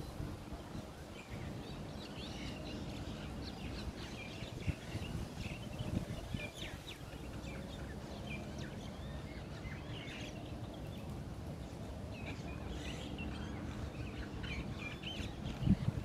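Small birds chirping: many short, high calls scattered throughout, over a steady low background rumble.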